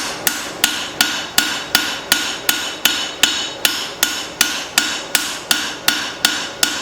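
Hand-forging hammer blows on hot leaf-spring steel on an anvil, drawing out the edge of a cleaver: an even, steady rhythm of about three ringing strikes a second.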